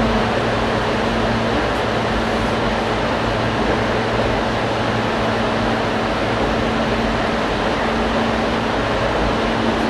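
Ichibata Electric Railway 5000 series electric train running, heard from inside the carriage: a steady rumble of wheels on rail with a low hum that comes and goes.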